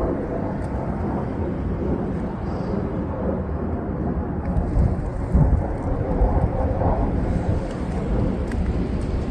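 Snowstorm wind blowing against the microphone: a steady low rumble that rises and falls slightly in gusts.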